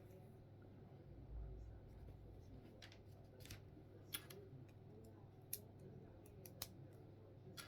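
Faint plastic clicks of Lego bricks being handled and pressed together: a handful of sharp ticks at irregular intervals, with a soft low thump about a second and a half in.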